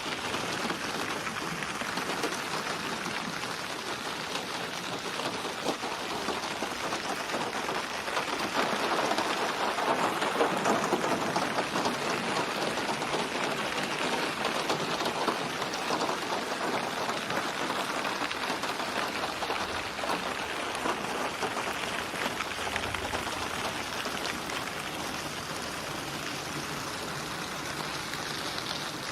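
Steady rain falling, a dense patter of drops on a surface. It grows heavier about a third of the way in, then eases back to a steady fall.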